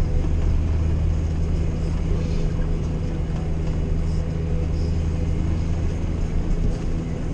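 Steady drone of an old Jeep's engine and road noise heard from inside the cab while driving.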